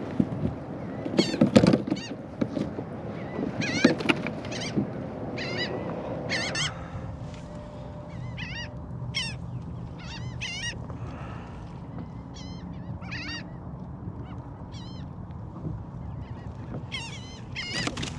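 A flock of seabirds feeding over baitfish, calling over and over in short, high, ringing cries. A few knocks and thumps in the first few seconds.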